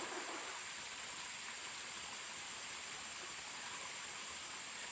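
Steady high-pitched insect chorus over the even rush of a mountain stream.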